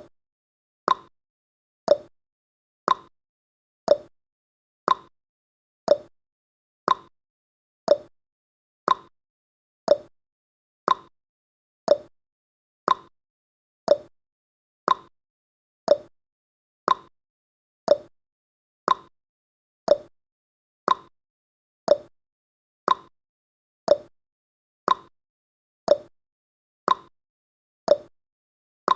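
Countdown timer tick sound effect: a short, sharp tick once every second, evenly spaced, with silence between the ticks.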